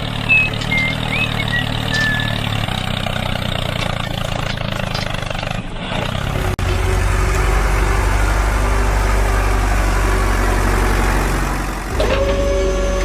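A truck engine running steadily at idle. Its sound changes abruptly about six and a half seconds in to a louder, steadier drone.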